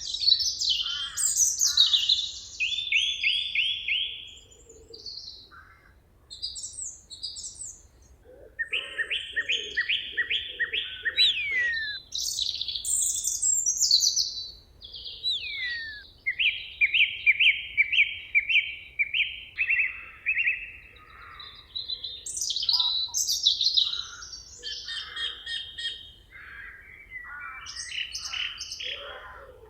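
Several songbirds singing at once in a forest dawn-chorus style: overlapping phrases of quickly repeated notes and trills, some high chirps and quick down-slurred whistles.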